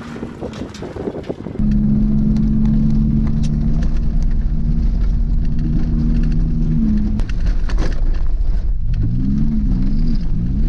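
2003 Pontiac Bonneville race car's engine heard from inside the cabin, running hard at steady high revs with a low rumble beneath. Near the end the engine note rises and falls several times.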